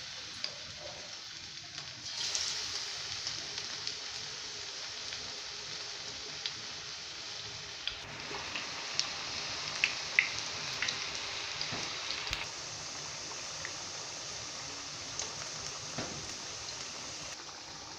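Batter-coated potato wedges frying in hot oil in a nonstick pan: a steady sizzle that grows louder about two seconds in, with scattered small pops and crackles.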